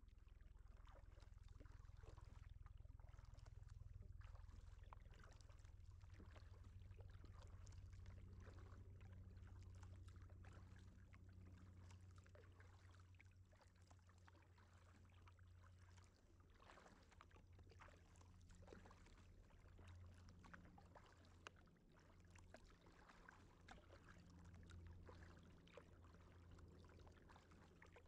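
Faint sounds of a kayak being paddled: scattered small splashes and drips of water from the paddle and hull, over a low steady rumble.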